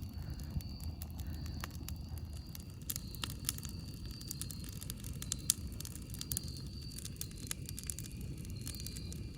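Campfire burning, with irregular sharp crackles and pops from the wood over a steady low rumble. Faint high-pitched tones come and go in the background.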